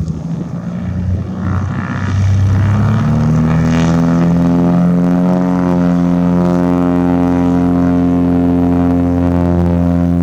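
Light propeller airplane's piston engine throttling up: its drone rises in pitch about two to three seconds in, then holds a steady, loud full-power note with many overtones, as for a takeoff roll.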